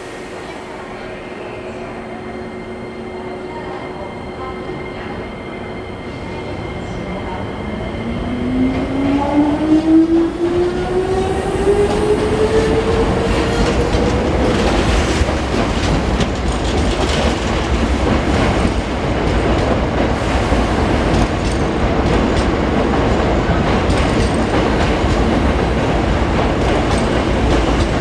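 A Hankyu electric train pulls away and accelerates. Its traction motors give a whine that rises steadily in pitch over several seconds. As it gathers speed and draws near, the sound grows louder and turns into a steady rumble, with the wheels clattering over rail joints.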